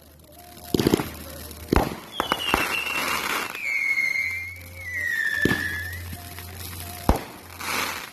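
Fireworks going off: about five sharp bangs with a noisy hiss between them, and a whistling firework whose tone falls slowly over about four seconds.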